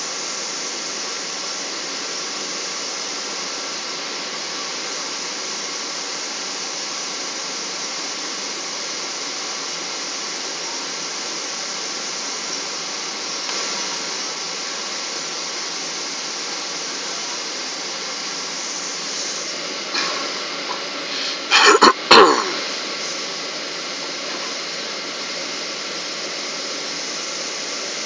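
Steady rushing cabin noise inside a Boeing 777 in flight: engine and airflow noise heard from a passenger seat. A brief cluster of loud knocks about three quarters of the way through.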